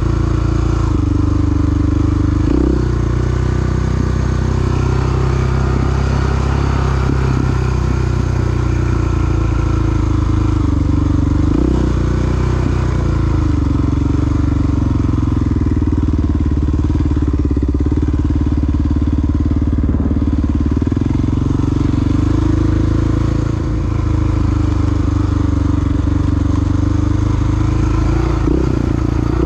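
Big single-cylinder four-stroke dual-sport motorcycle engine running under way, its pitch rising and falling, with brief breaks about two seconds in, near the middle and near the end.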